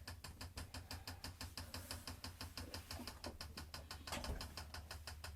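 Fast, even mechanical ticking, about eight ticks a second, over a low hum, with a soft bump about four seconds in.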